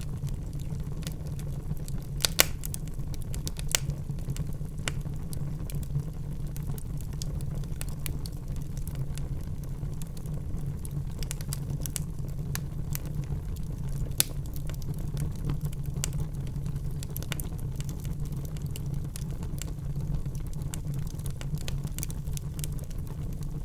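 Wood fire crackling in a fireplace: scattered sharp pops and snaps over a steady low rumble of the flames, with a few louder pops in the first few seconds and one about halfway through.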